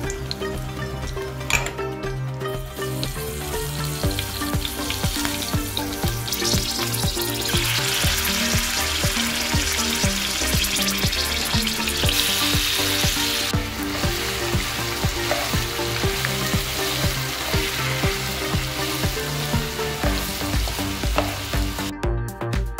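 Food frying in a nonstick pan: nigella seeds and green chillies sizzling in hot oil, then a cabbage and grated-coconut mixture sizzling as a slotted spoon stirs and scrapes through it. The sizzle is loudest in the middle. Background music plays underneath.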